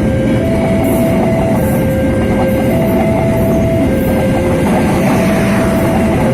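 Jayakarta Premium passenger train running past, its cars and wheels making a loud steady rumble with clickety-clack on the rails. A two-tone signal alternates over it, about one tone a second.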